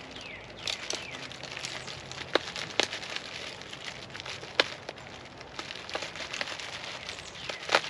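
Packaging being handled: irregular crinkling and rustling with several sharp clicks, the loudest about two and a half, three, four and a half seconds in, and again near the end.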